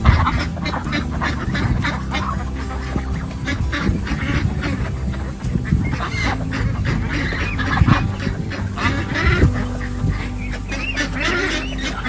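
A flock of white domestic ducks quacking, many short calls overlapping throughout.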